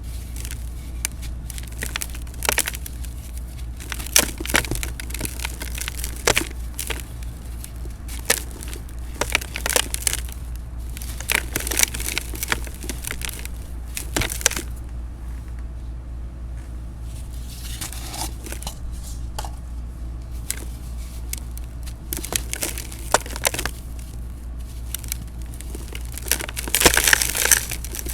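Dried cement mix, made a little softer with baking soda, crunching and crumbling in a pot in irregular bursts of crackles, the loudest and longest burst near the end. A steady low hum runs underneath.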